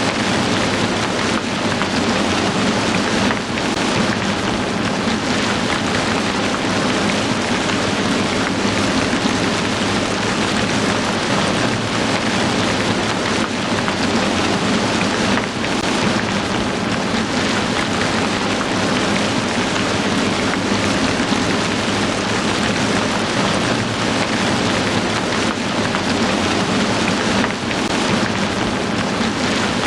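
Heavy rain falling in a steady, dense downpour, an even hiss with no let-up.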